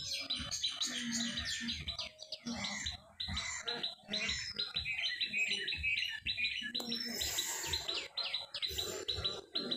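Small birds chirping rapidly and repeatedly in short, high calls.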